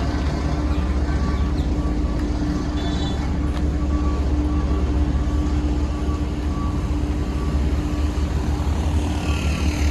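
Heavy construction machinery's diesel engine running steadily with a deep rumble, and a faint high tone pulsing on and off at a regular pace.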